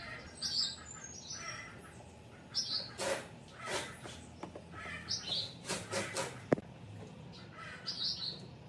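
Small birds chirping in short high calls again and again, with a few brief scraping noises and one sharp knock about two-thirds of the way through.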